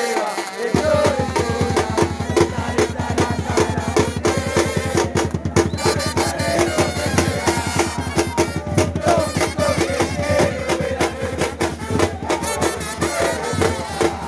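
Drums beating a fast, steady rhythm that starts suddenly about a second in, with a melody carried over the beat.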